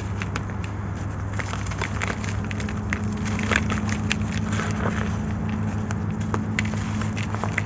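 Dry, gritty grey sand-cement chunks being crumbled, giving an irregular run of small crunches and crackles over a constant low hum.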